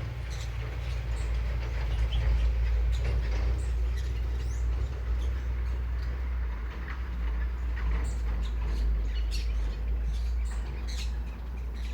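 Birds chirping in short high calls over a steady low rumble.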